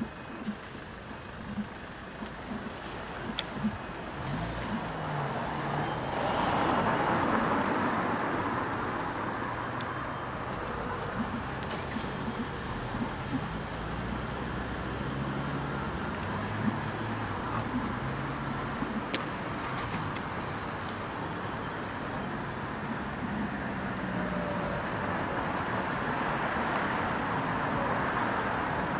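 Road traffic: cars passing on a street, with one louder pass swelling up about six seconds in, then a steady traffic hum.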